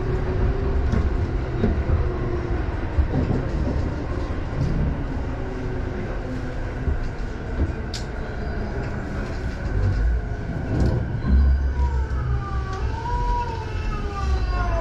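Electric commuter train heard from inside the carriage as it slows into a station: a steady low rumble of wheels on rail, with a sharp click about eight seconds in. In the last few seconds the traction motors' whine glides down in pitch as the train brakes.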